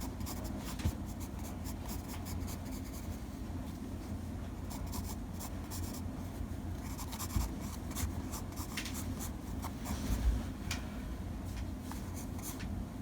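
Sketching: a drawing tool scratching in many short, irregular strokes, over a steady low hum.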